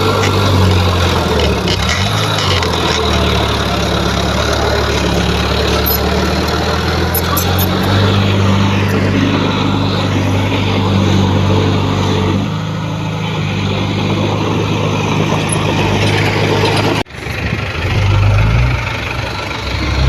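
Heavy diesel engine of earth-moving equipment running, a steady low engine note whose pitch shifts a few times. It breaks off for an instant near the end and picks up again.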